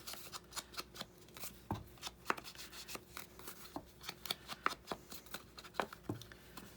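Paper being handled, with many quick, irregular light taps and rubs as an ink pad is worked along a paper edge.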